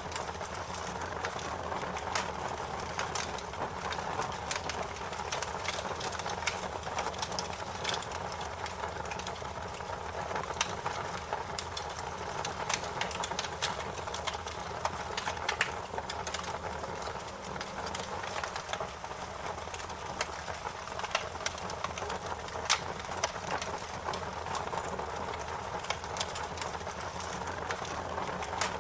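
Fire crackling: a steady hiss of burning flames with frequent sharp pops and snaps at irregular intervals.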